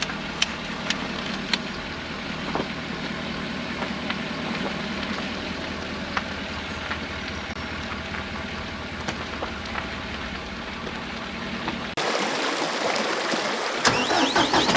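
An engine running steadily at idle, with a few sharp clicks over it. About twelve seconds in, the sound cuts abruptly to a different, brighter sound.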